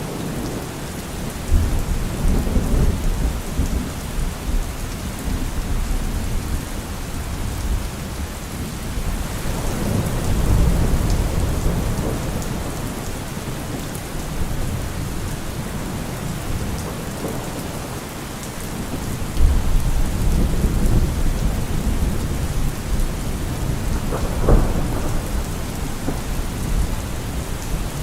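Steady rain falling, with thunder rumbling low several times and a sharper thunderclap near the end.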